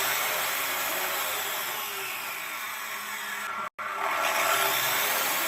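DeWalt 14-inch cut-off saw motor running steadily with a hissing whine. It cuts out for an instant about two-thirds of the way through, then carries on with a slight swell.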